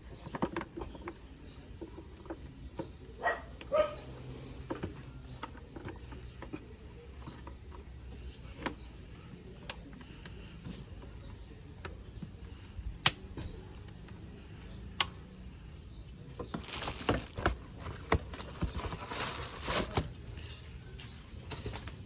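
Handling noise from working on a car's cabin air filter behind the glovebox: scattered light plastic clicks and knocks, then a few seconds of rustling and scraping near the end.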